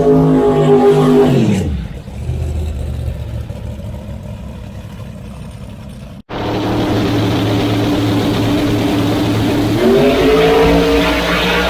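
Drag racing cars running at full throttle down the strip: one engine's pitch falls sharply about a second and a half in, leaving a lower rumble. After a sudden cut about six seconds in, another engine runs steadily and climbs in pitch near the end.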